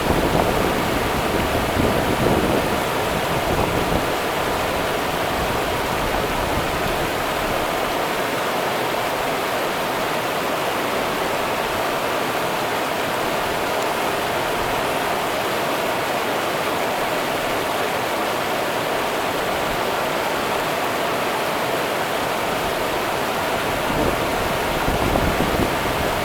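The Rio Grande's water rushing steadily as a river current. A low rumble sits under it in the first few seconds and again near the end.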